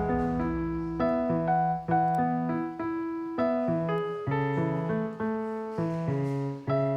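Background music: solo piano playing a gentle melody with bass notes, each note struck and fading.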